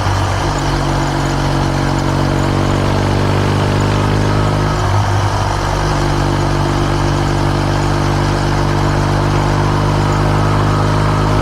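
Kawasaki W650's air-cooled parallel-twin engine running through an aftermarket R's Gear Wyvern Classic muffler while the bike is ridden at a steady pace, with a brief change in the note about five seconds in.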